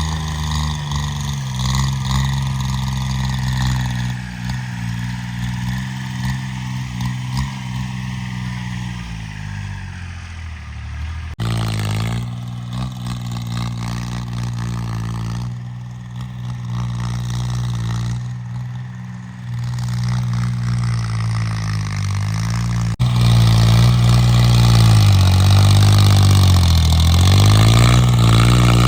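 Homemade tractor's diesel engine running continuously, its note sagging and picking up again as it works. The sound changes abruptly twice, and the engine is louder and higher for the last few seconds.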